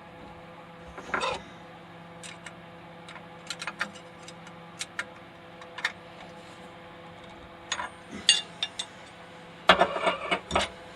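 Scattered small metallic clicks and clinks, with a louder cluster about a second in and more near the end, as a 1/16 inch tapered ball bit is fitted into a CNC router's collet with the router switched off. A faint steady hum runs underneath.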